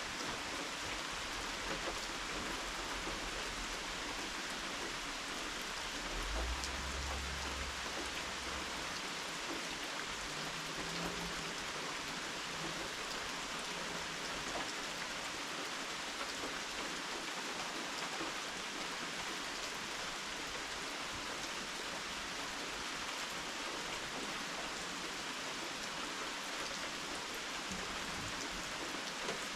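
Steady rain falling and pattering, heard from a porch, with a dense even hiss and scattered drips. A brief low rumble comes about six seconds in.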